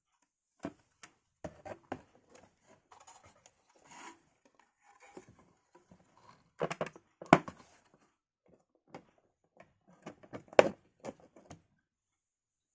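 Computer parts and packaging handled by hand: scattered clicks, taps and light rustling and scraping, with two sharper knocks about seven and ten and a half seconds in.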